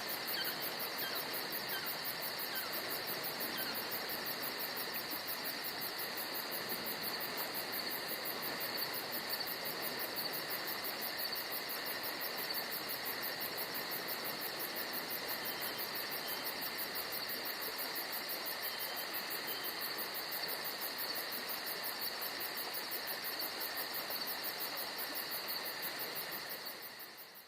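Steady chorus of crickets and other insects, a continuous chirring at several fixed pitches, with a few brief chirps in the first few seconds. It fades out near the end.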